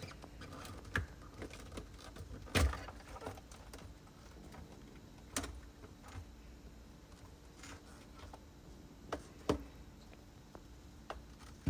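Scattered light clicks and knocks of a refrigerator's evaporator cover and its fittings being worked loose and lifted off, with a few sharper knocks spaced several seconds apart.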